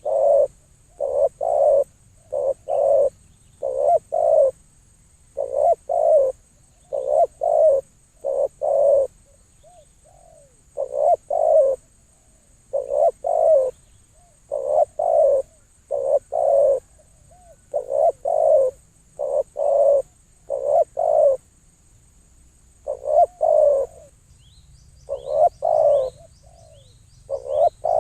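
A dove cooing over and over in short phrases of two to four low notes, about one phrase every two seconds. Near the end a small bird chirps faintly with quick high falling notes.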